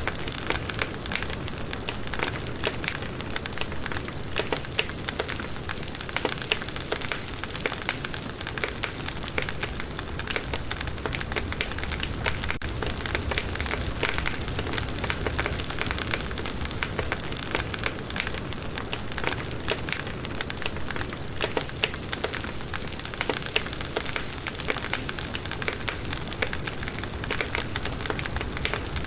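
Firewood burning in a campfire, with a dense, steady crackle of small pops and snaps.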